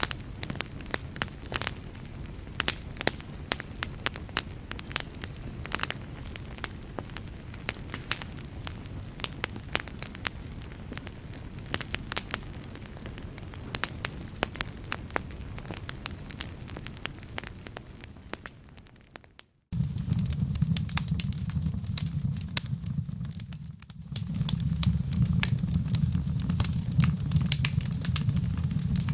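Fire crackling, dense sharp pops and snaps over a steady low rumble. About two-thirds of the way through it fades out to a moment of silence, and a louder crackling section with a heavier low rumble starts abruptly.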